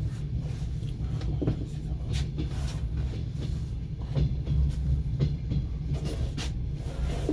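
Passenger train carriage running, heard from inside the car: a steady low rumble with the wheels clattering over the rails and scattered sharp knocks and rattles.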